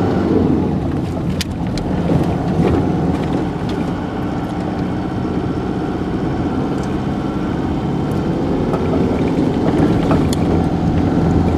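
Car engine running as a manual car is driven slowly by a learner driver through a gear change. A few light clicks and knocks sound over the steady engine.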